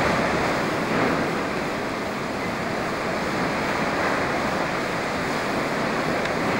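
Storm wind blowing through the inside of an abandoned building during a snowstorm: a steady rushing noise that eases slightly about two seconds in.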